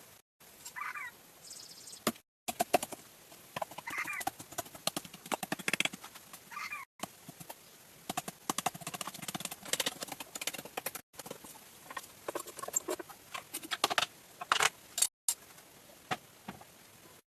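Ducks giving a few short calls among irregular clicking and tapping, broken by brief silent gaps.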